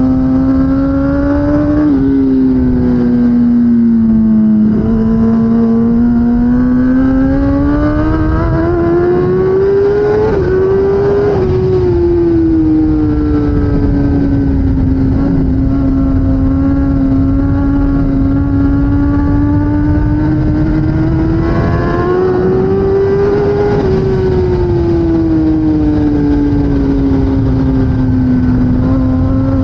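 2016 Kawasaki ZX10R superbike's inline-four engine under race load, its pitch rising and falling with the throttle and gear changes, over a steady rush of wind and road noise. It shows two quick drops in pitch in the first five seconds, a long climb to about ten seconds, a mostly steady stretch, and another rise and fall near the end.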